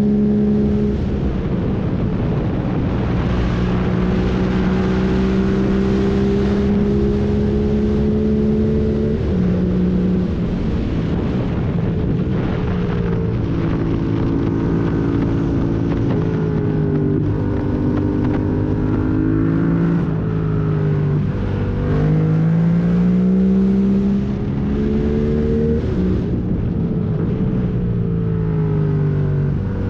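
Yamaha MT-07's 689 cc parallel-twin engine, breathing through a full MIVV exhaust with the catalyst removed and no dB killer, pulling hard and rolling off. The pitch rises and falls repeatedly with throttle and gear changes, with a long rising pull a little past the middle.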